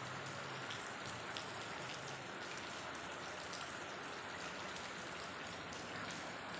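Steady patter of rain, with faint scattered drop ticks.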